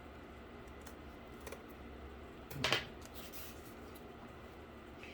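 Scissors cutting cardboard: a few faint snips, with one louder cut about two and a half seconds in.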